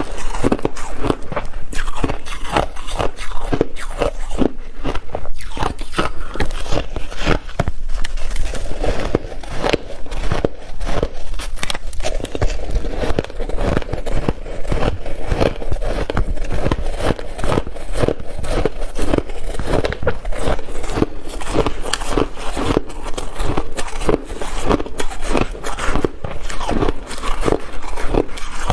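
Close-up crunching of ice being bitten and chewed, a continuous run of crisp crunches several times a second.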